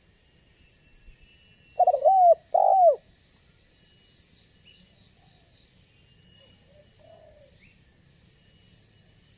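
Spotted dove (tekukur) cooing: two loud, arched coo notes about two seconds in, then a much fainter coo a few seconds later.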